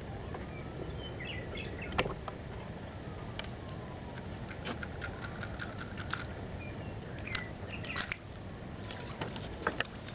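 Small birds chirping now and then, with faint gliding whistles, over a steady low rush of open-air background. Scattered sharp clicks and knocks, the strongest about two seconds in and twice near the end.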